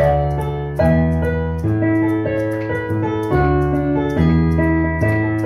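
Electronic keyboard playing held chords over a steady bass, with the chord changing about once every second, and a faint regular tick of percussion on top. Instrumental accompaniment between sung lines.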